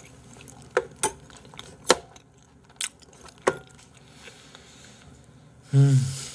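Chewing close to the microphone: several sharp wet mouth clicks and crunches over the first few seconds. Near the end comes a short, loud voiced grunt from the eater.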